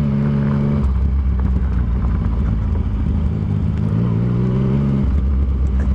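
Motorcycle engine running at low road speed on a gravel dirt road, heard from the rider's own bike; its pitch shifts with the throttle, climbing gradually through the middle and dropping back near the end.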